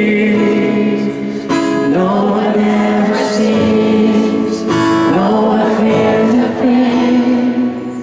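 Live pop-rock band music heard through the venue's amplification, with guitar and held sung voices between the lead vocal lines. The loudness drops off near the end.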